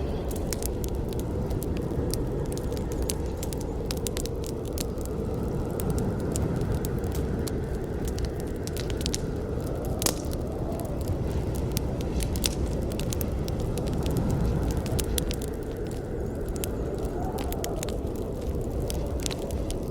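Campfire burning, a steady low rush of flame with frequent sharp crackles and pops of burning wood, one louder pop about halfway through.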